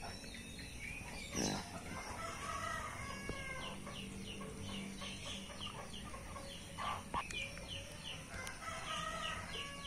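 Faint bird calls: a run of short chirps at about three a second for a few seconds, with a few longer calls in between and again near the end.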